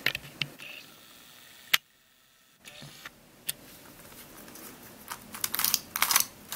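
Sharp plastic clicks and rattles from handling a Curvy Dino twisty puzzle cube, scattered at first, then a quicker run of clicks near the end.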